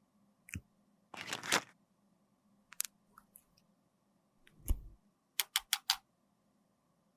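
Small makeup cases and tools being handled on a tabletop: a click, a short scrape, a few sharp ticks, a dull thud, then four quick taps.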